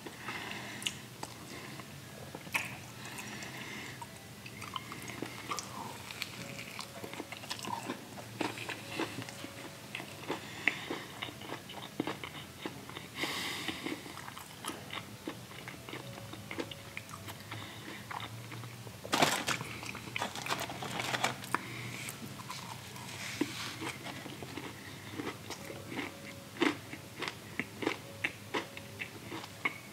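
Close-up chewing and biting of a fried chicken biscuit sandwich: crunches and many small mouth clicks throughout, with a couple of louder bites along the way.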